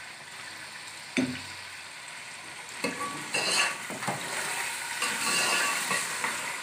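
Beef pieces with yogurt and whole spices sizzling in hot oil in a metal pot while being roasted (bhuna). A single knock comes about a second in, and from about three seconds in a spoon stirs and scrapes through the mixture in repeated strokes over the steady sizzle.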